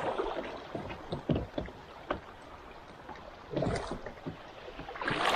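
Water sloshing and splashing around a kayak, with scattered light knocks and two louder swells of water noise, one about three and a half seconds in and one near the end.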